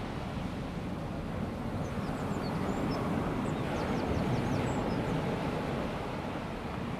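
Calm sea washing on a sandy beach as a steady low rumble that swells a little midway, with faint high bird chirps scattered about two to five seconds in.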